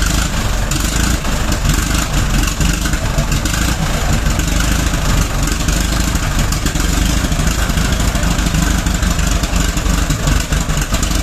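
The 1909 Blitzen-Benz's 21.5-litre four-cylinder engine running loudly and steadily, its firing a rapid, rough pulsing.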